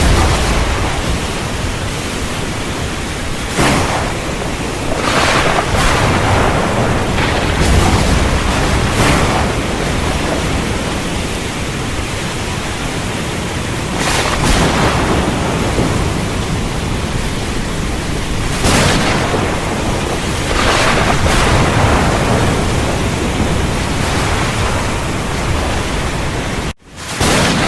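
Heavy rain pouring steadily, with short louder cracks and rumbles of thunder every few seconds. The sound cuts out for a split second near the end.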